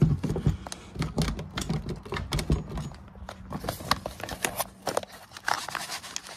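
Irregular clatter of knocks, clicks and scraping as a 1-inch PVC pipe kayak cart is handled and worked into the kayak's scupper holes, with a faint steady hum underneath.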